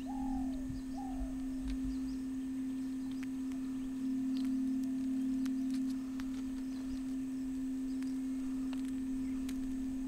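A steady low hum, the loudest sound, with two short arching bird calls in the first second and faint high chirps and ticks scattered through.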